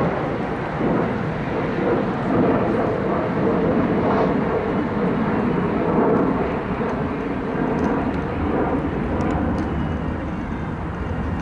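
MARC commuter train pulling away, a steady engine drone from its diesel locomotive that holds level after the train is out of sight.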